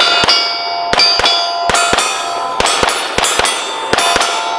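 Pistol shots fired mostly in quick pairs, about a dozen in all, each pair followed by the clang and ringing of steel target plates being hit.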